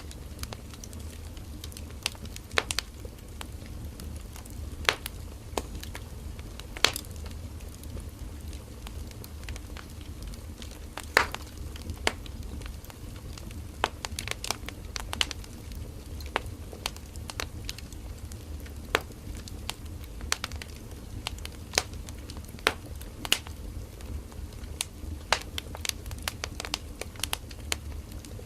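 Firewood burning in an open wood fire: irregular sharp crackles and pops over a low steady rumble of the flames, the loudest pop about eleven seconds in.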